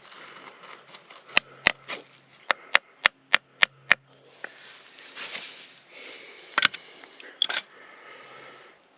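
A man breathing hard and sniffing after working a bow drill, with a quick run of about eight sharp taps in the first half and two more knocks later on.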